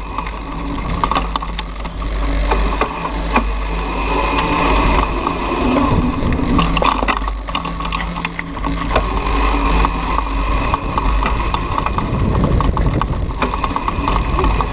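Razor MX500 electric dirt bike riding: the chain-driven electric motor whines steadily over a low rumble, with many small clicks and rattles from the frame and chain.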